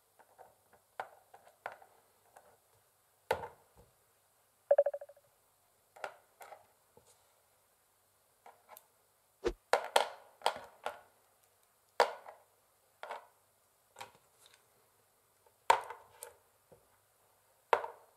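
Long fingernails tapping on a wooden chessboard: irregular sharp clicks, some single and some in quick clusters, with silence between them. One tap, about five seconds in, rings briefly.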